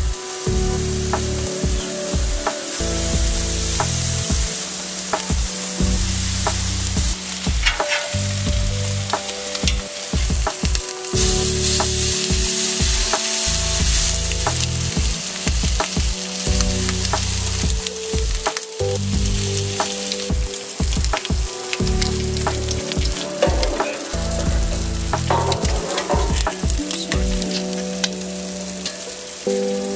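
Food sizzling on a grill rack over a wood fire, a steady hiss with frequent small pops, over background music.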